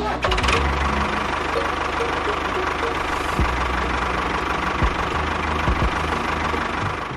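Engine running steadily, with a few short knocks.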